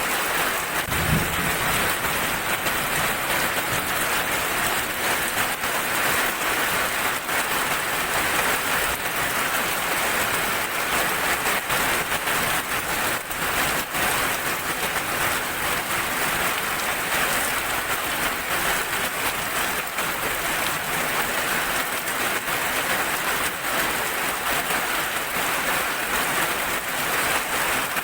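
Steady rain falling and pattering on surfaces, a dense even hiss, with one brief low thump about a second in.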